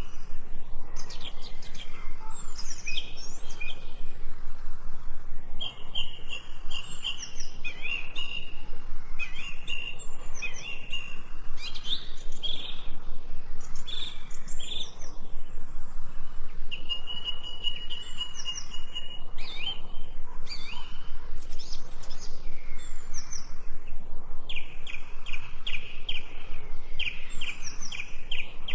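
Songbirds chirping and singing: a dense mix of short calls, high trills and a few held, even-pitched trills, with a quick series of repeated notes near the end, over a steady background hiss.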